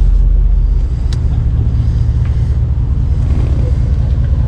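Truck engine running, a loud steady low rumble.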